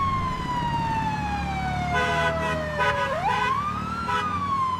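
Ambulance siren wailing in slow sweeps: a long falling tone, then a quick rise and another slow fall.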